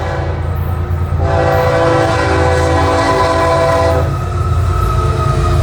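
Florida East Coast freight train's diesel locomotive sounding its multi-chime air horn for the grade crossing: a shorter blast, a brief break, then a long blast that ends about four seconds in, over the low rumble of the locomotive. A steady high tone carries on after the horn stops.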